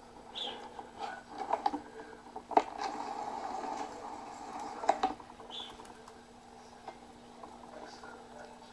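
A small bird, a sparrow, tapping and pecking around a computer: scattered light taps and a few sharper clicks, the loudest about two and a half seconds and five seconds in.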